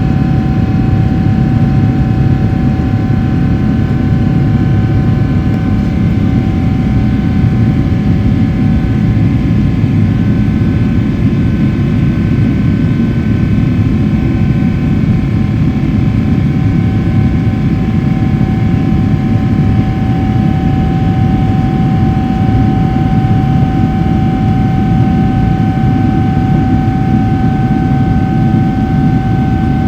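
Boeing 777-300ER's GE90-115B turbofans heard from inside the cabin at climb thrust after takeoff: a loud, steady low roar with a steady whine riding over it, the whine growing a little stronger after about twenty seconds.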